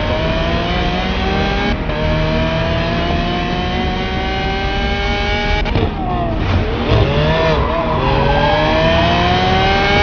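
A sports car engine accelerating hard, its pitch climbing steadily through each gear, with upshifts about two and six seconds in. Between about six and eight seconds the note wavers up and down before it climbs again.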